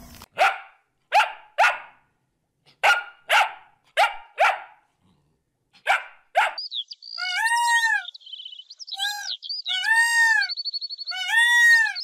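A small dog barking, about nine short sharp barks with silent gaps between them. It is followed by about five loud cries, each rising and then falling in pitch, typical of a peacock calling, together with some high chirping.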